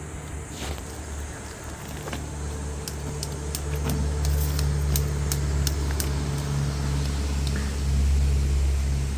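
An engine running steadily with a low hum that grows louder toward the end, with scattered light clicks and rattles.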